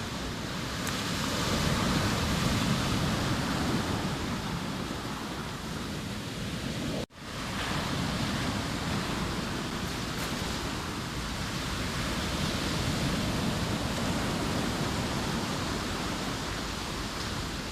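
Sea waves breaking and washing on the shore: a steady rush of surf that swells and eases. The sound cuts out for a split second about seven seconds in, then resumes.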